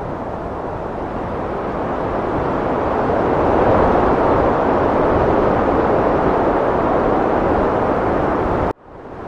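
Heavy wind blowing as a steady rushing noise that swells in strength partway through. Near the end it cuts out suddenly and then builds back in.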